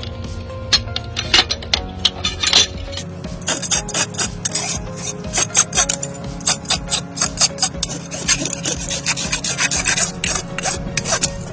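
Hoof rasp filing a hoof in quick, repeated strokes, over background music.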